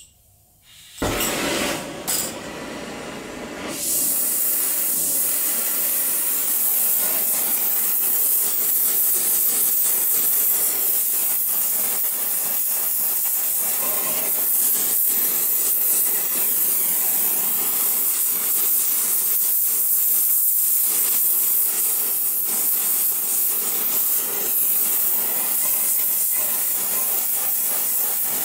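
Oxy-fuel torch with a small tip burning with a steady hiss, heating a rusted, seized exhaust manifold stud to free it. The hiss starts about a second in and grows louder and steadier from about four seconds.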